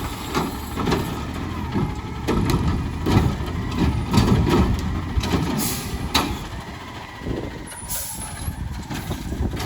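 Garbage truck running, with repeated knocks and clanks over the engine's low rumble and a short hiss of air, typical of air brakes, a little over halfway through and again near the end.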